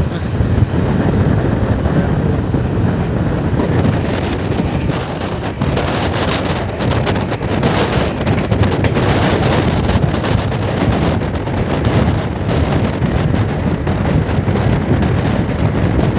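Passenger train running at speed: a steady rumble of wheels on the rails, with wind buffeting the microphone.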